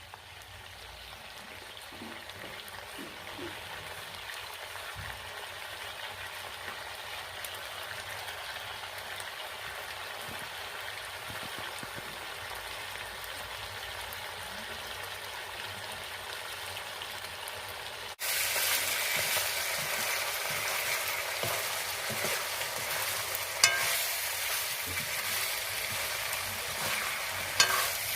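Food sizzling in hot oil in a cooking pan, a steady frying hiss that grows slowly, then turns abruptly louder about two-thirds of the way through. Two sharp clicks come in the last few seconds.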